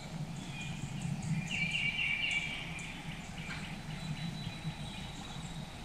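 Woodland bird singing a short run of quick repeated notes about one and a half seconds in, over a faint steady low hum.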